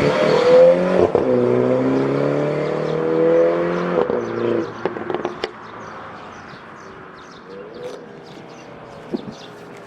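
Third-generation Mini John Cooper Works turbo four-cylinder with a tuned 'popcorn' exhaust, held at raised revs, then let off about four and a half seconds in with several sharp exhaust pops. It then drops to a quieter idle with light crackling and another pop near the end.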